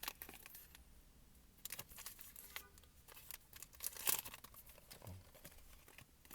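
Granola bar's plastic wrapper being torn open and crinkled by hand, in irregular short crackles, the loudest about four seconds in.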